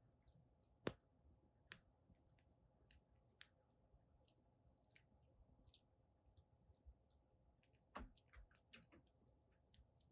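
Firewood burning in a fire pit, crackling faintly with scattered small snaps, and sharper pops about a second in and near eight seconds.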